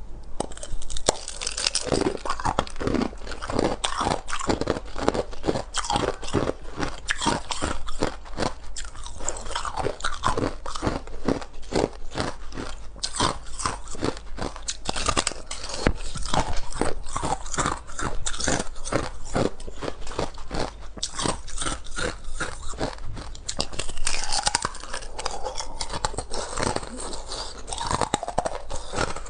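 Close-up crunching of thin ice being bitten and chewed: a steady run of crisp, irregular crunches, about two to three a second.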